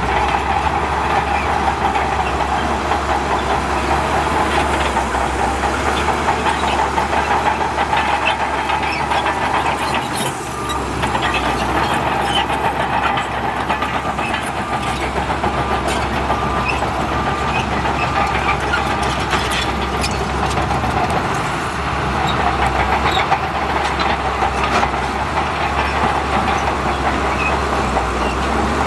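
Crawler bulldozer at work: a steady diesel engine with frequent clanks and clicks from the steel tracks, easing off briefly twice.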